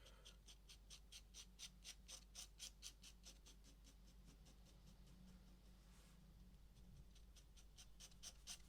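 Pen scratching on paper in quick, short, repeated strokes, about four or five a second. The strokes pause about halfway through, then start again near the end.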